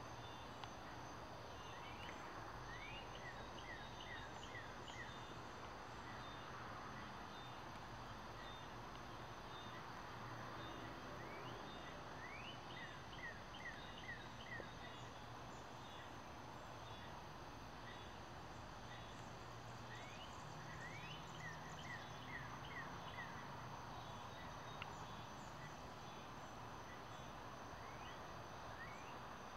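A bird sings a short phrase three times, a rising note then about five quick notes, over a steady high-pitched chorus of insects. The sound is faint.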